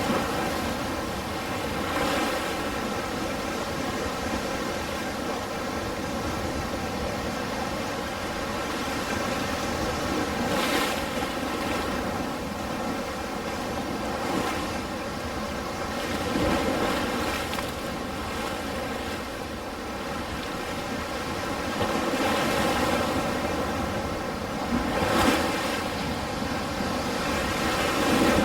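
Ocean surf: a steady wash of waves breaking and rolling in, swelling and fading, with a louder breaker every few seconds.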